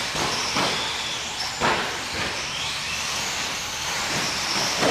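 Radio-controlled short course trucks racing: a steady hiss of tyres on the track with high, wavering motor whines, and one sharp knock about a second and a half in.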